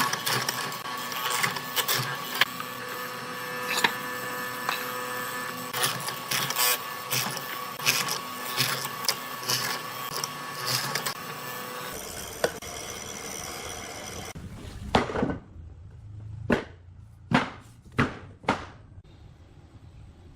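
A woodworking power tool running with a steady whine and rapid clicking and rattling. After an abrupt change, a series of five or six separate sharp knocks follows on wood.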